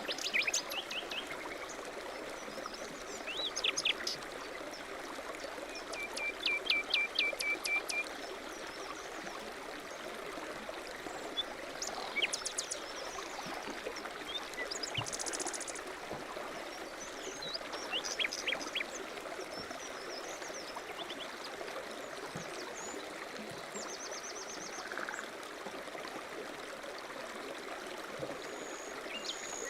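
Steady rush of a mountain stream, with songbirds chirping over it in short phrases of repeated notes, including a quick high trill about halfway through.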